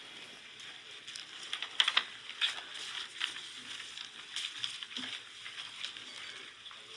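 Faint rustling and crackling with a few soft clicks and knocks, like handling noise near a microphone in a quiet hearing room.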